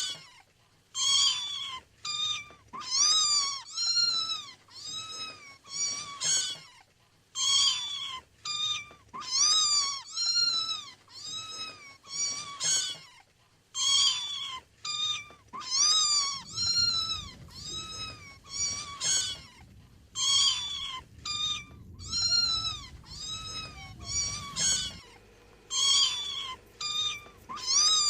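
Kitten mewing over and over: short, high-pitched mews that rise and fall, about one or two a second.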